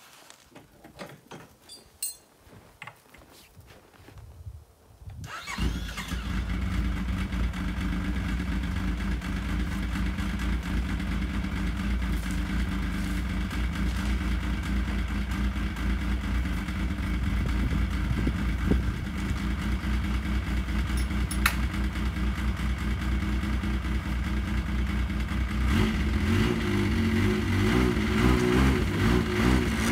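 A few faint small clicks, then about five seconds in an engine starts and runs steadily; near the end its note shifts and wavers as the revs change.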